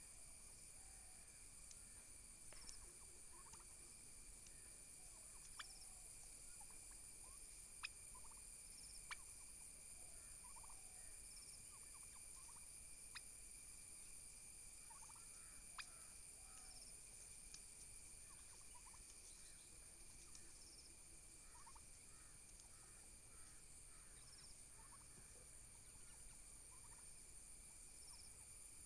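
Domestic turkey toms faintly clucking and gobbling in short calls scattered throughout, over a steady high-pitched insect drone, with a few sharp clicks.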